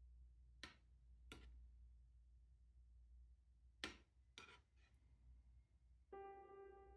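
Quiet room tone with a low hum and five faint, sharp clicks, two close together near the start and three around the middle. Soft piano music comes in about six seconds in.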